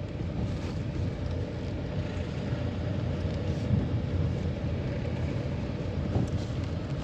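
A vehicle driving along a rough forest road: steady engine and tyre rumble with road noise.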